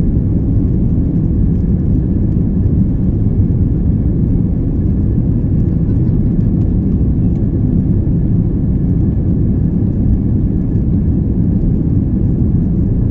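Steady low rumble of cabin noise inside an Airbus A330-300 in flight: engine and airflow noise, with a faint steady high tone running through it.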